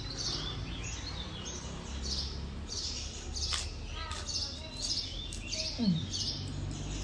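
Small birds chirping repeatedly, short high chirps one after another over a low steady background hum.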